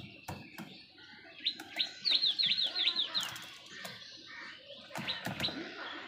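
A small bird's quick run of about eight short, high chirps, each sliding downward, starting about one and a half seconds in, over a background of other bird calls. A few sharp taps come near the start and again near the end.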